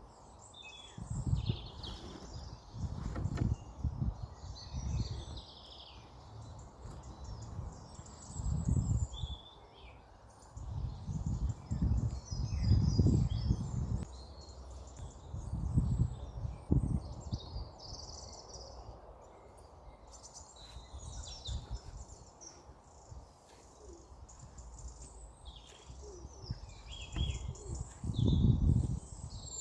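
Many small birds chirping and tweeting without pause, with loud low rumbles coming and going every few seconds.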